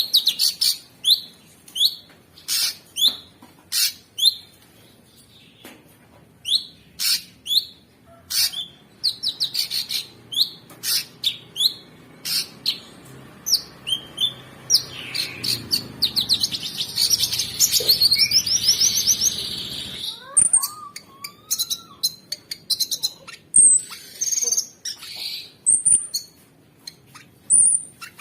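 Cucak sungkok song, a recording made for training songbirds: a nonstop string of short, sharp, high chirps, many dropping in pitch, with a fast rattling trill about halfway through and a few lower sliding calls after it.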